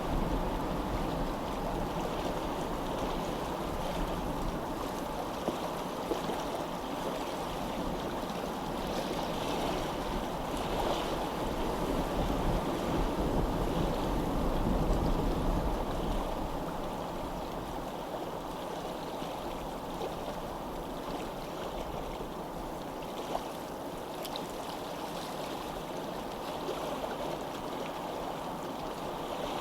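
Steady noise of flowing water, with a low rumble underneath that fades out a little over halfway through.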